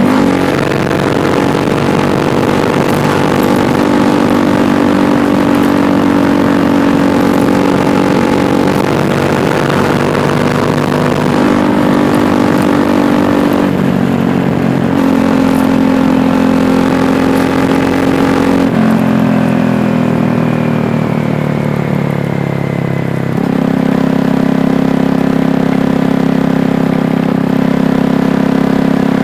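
KTM Duke 390's single-cylinder engine running under way, its note steady between several pitch changes: it shifts at around eleven and fourteen seconds, drops about two-thirds of the way through, then steps back up near the end.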